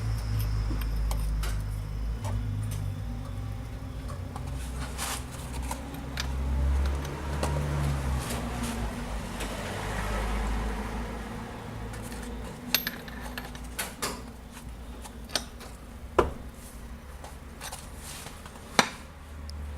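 Metal hand tools clinking and knocking against engine parts during dismantling, with a few sharp clanks in the second half, over a low rumble that fades about two-thirds of the way through.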